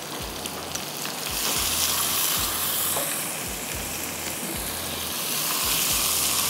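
Sliced onion, green chillies and capsicum frying in oil in a karahi, a steady sizzle.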